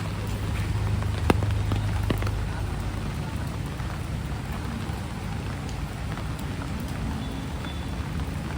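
Heavy rain falling steadily, with a low rumble that is strongest in the first few seconds and a single sharp tap about a second in.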